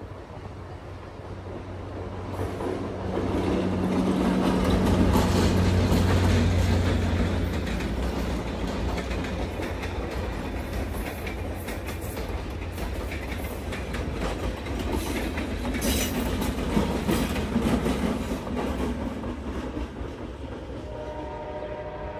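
Excursion train hauled by two EMD FL9 diesel locomotives passing close by: the locomotives' engines drone loudest a few seconds in, followed by a long rumble of passenger cars with wheels clicking over rail joints. A horn sounds faintly near the end as the train moves off.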